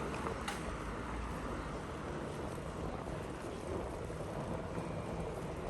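Steady vehicle and road noise with wind buffeting the microphone, and a single faint click about half a second in.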